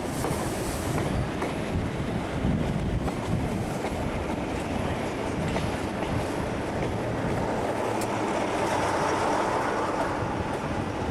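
Train running on the rails: a steady rumble of wheels with some clatter, a little louder near the end.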